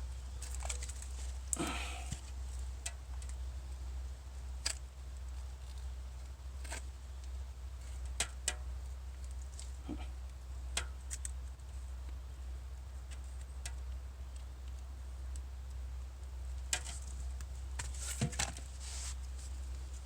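Scattered small clicks, taps and light scrapes of a knife and thin split sticks being handled while pine sap is pasted onto them, over a low steady hum.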